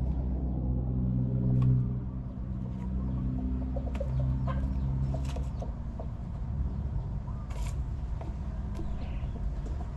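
Chickens clucking over a low steady hum, with a few short clicks; the hum's deeper tones fade about halfway through.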